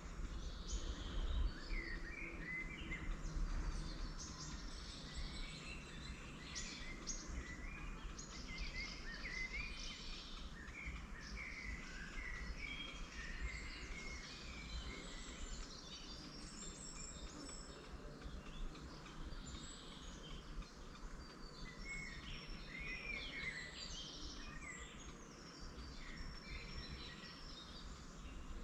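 Several wild songbirds singing at once, a dense mix of short chirps and quick trills, over a steady low rumble of background noise that is strongest in the first few seconds.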